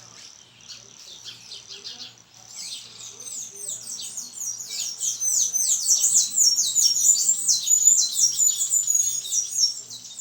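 Several small birds chirping and calling together in quick, overlapping high notes. Faint at first, they grow much louder about a quarter of the way in, then ease off near the end.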